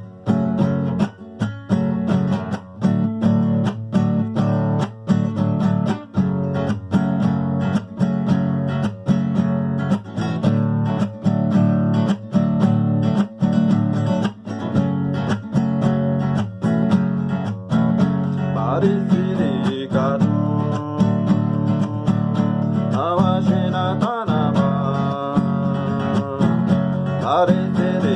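Acoustic guitar strummed in a steady rhythm. About two-thirds of the way in, a higher, wavering melody line joins it.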